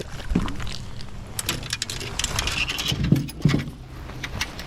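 A run of light clicks and knocks, with two louder thumps about three seconds in, over a steady low hum.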